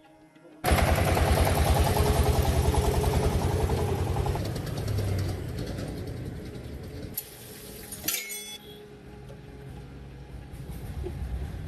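Diesel engine starting abruptly and running with fast, even knocking pulses, then dying down over the next few seconds to a lower rumble, with a sharp click near the end.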